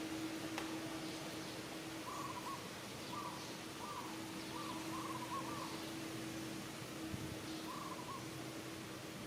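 Short wavering cooing calls, in small groups of two or three, over a steady low hum.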